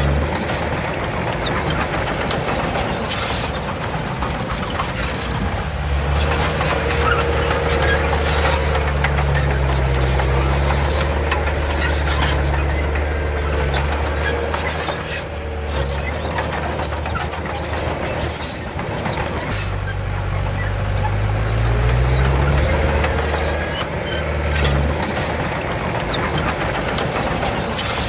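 Komatsu D31 bulldozer working, its diesel engine running under varying load with the pitch rising and falling a few times, over the clatter and rattle of steel tracks.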